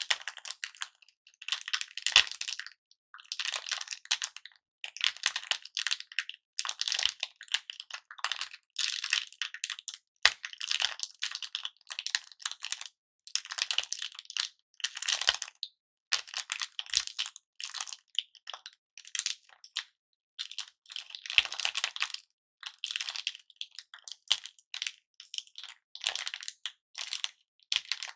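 Close-miked handling of cellophane-wrapped lollipops and broken hard-candy pieces: short bursts of crinkling and clicking, about one a second, with brief pauses between.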